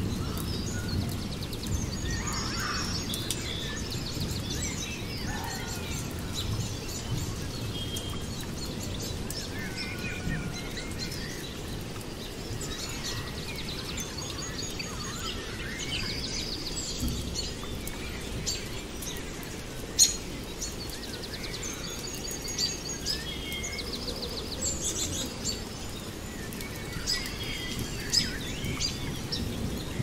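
Many small birds chirping and trilling over a steady low rushing background noise, with one sharp click about two-thirds of the way through.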